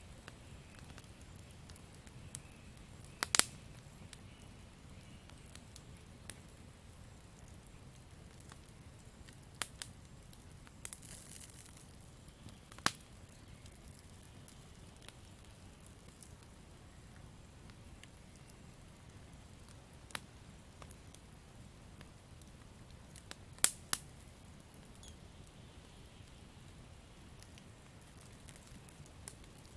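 Campfire burning with a soft low rumble and scattered sharp crackles and pops from the burning wood. The loudest pops come about three seconds in and as a close pair about 24 seconds in, with a brief hiss near the middle.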